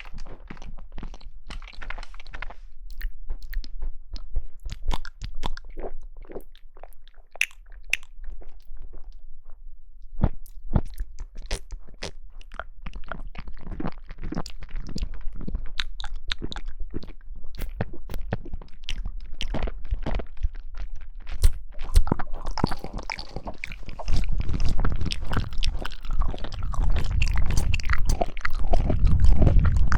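Close-miked eating sounds of jelly: irregular crunching bites and chewing with many small crackles, growing louder and fuller over the last several seconds.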